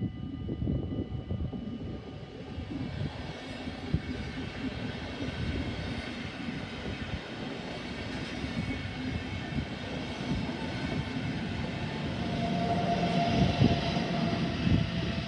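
Passenger train approaching and running over a level crossing: a steady rumble of wheels on rails that grows louder toward the end.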